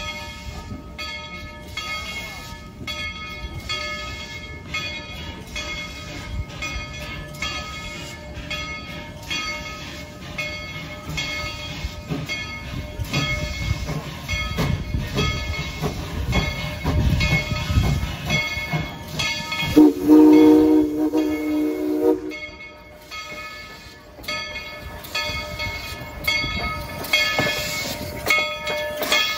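Steam train riding along, its rumble and clatter steady and growing heavier past the middle. About twenty seconds in, the locomotive's steam whistle sounds one chord blast of about two seconds, the loudest sound here.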